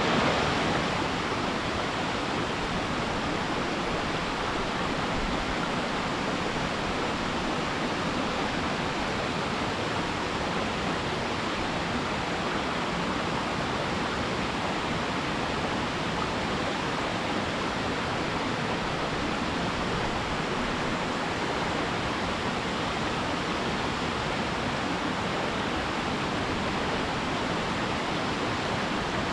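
Waterfall plunging into its pool: a steady, even rush of falling water.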